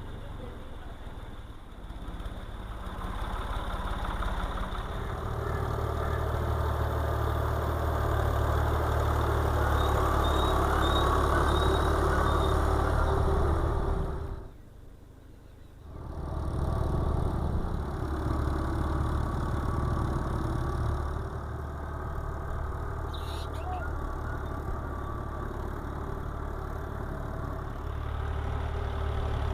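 Tractor engine running steadily as it works a muddy rice paddy, with its level rising and falling; it drops away briefly about halfway through, then comes back.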